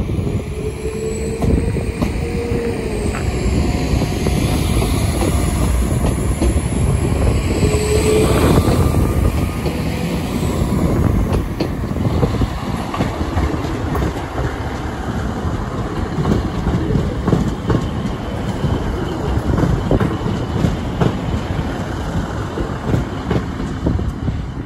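Northern Class 195 diesel multiple unit pulling out and passing close by: its underfloor diesel engines run under power over a steady rumble of wheels on rail. A faint high whine rises and falls during the first ten seconds.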